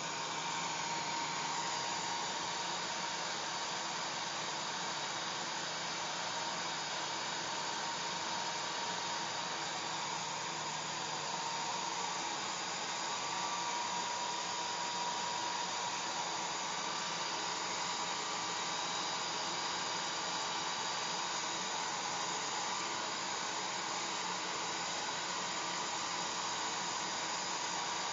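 Handheld hair dryer running steadily, a continuous airy rush with a faint high whine from its motor and fan.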